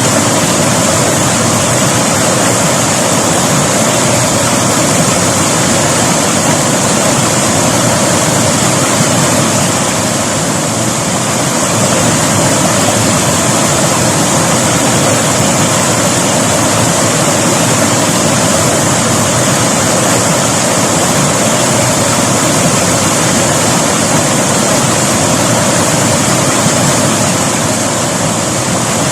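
River water rushing and splashing, a loud, steady wash with no breaks.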